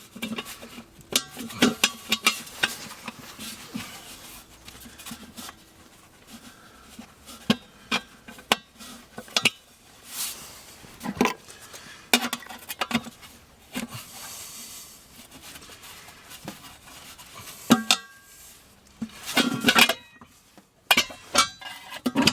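Irregular metallic clinks and clunks of hand tools and metal engine parts being handled as the air cleaner is worked off the truck's carburetor.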